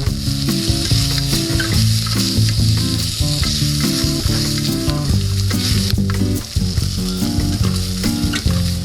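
Food sizzling over a wood campfire: a steady hiss with scattered sharp crackles, under a low layer of changing pitched notes.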